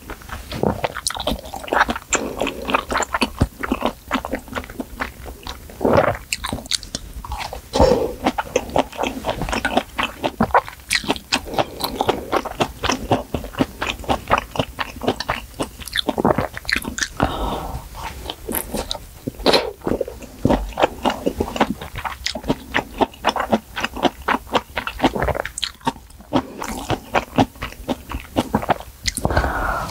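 Close-miked chewing of spicy malatang: soft noodles and vegetables in broth. The chewing gives a dense, steady run of wet mouth clicks and smacks, with a few louder, longer sounds among them.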